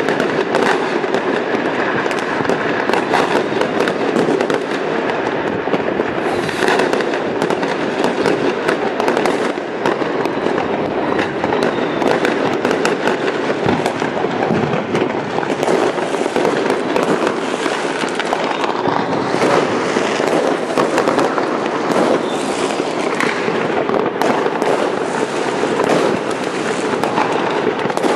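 Many fireworks and firecrackers going off at once: a continuous barrage of bangs and crackling that never lets up.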